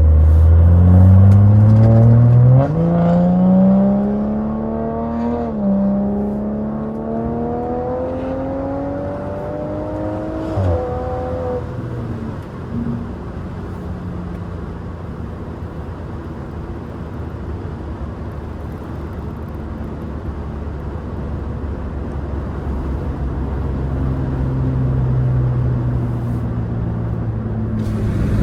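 BMW 540i's catless, straight-piped B58 turbocharged inline-six under hard acceleration, revs climbing with a gear change about three seconds in and another near six seconds, then a longer pull to about ten seconds before lifting off. After that the exhaust settles to a steady cruising drone that rises a little near the end.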